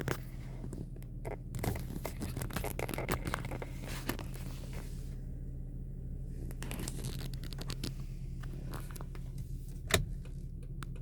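Toyota Windam V6 engine idling steadily with a low hum, overlaid by frequent crackling, rustling and clicking close to the microphone, with one sharp click about ten seconds in.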